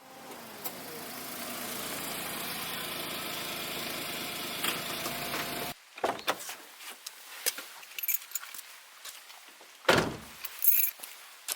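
A car engine running steadily, cutting off abruptly about six seconds in. Scattered clicks and knocks follow, with a louder thump near the end, like keys and a car door being handled.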